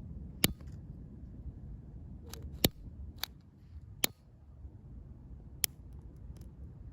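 Dry firewood cracking: a handful of sharp snaps at uneven intervals over a low background rumble.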